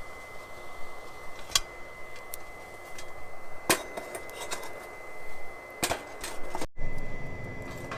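A few sharp knocks and clinks, like hard objects being handled or set down, over a faint steady high tone; the sound cuts out for an instant near the end.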